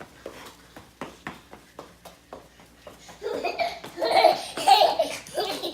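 A young child laughing hard in loud repeated bursts, starting about three seconds in, after a few faint short taps.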